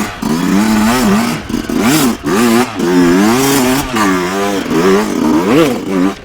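Dirt bike engine revving up and down over and over, the throttle opened and shut in short bursts with brief drops between them.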